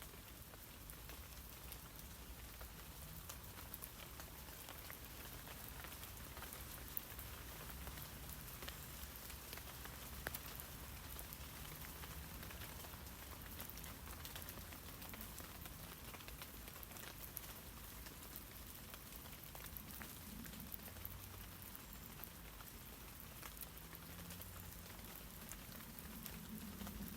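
Rain falling on tree leaves: a steady patter of many small drops, with a few louder single drips here and there.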